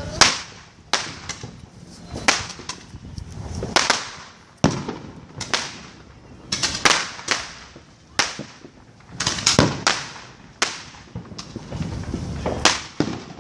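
Consumer fireworks and firecrackers going off in a string of sharp bangs at uneven intervals, about one or two a second, some with a short echo after them.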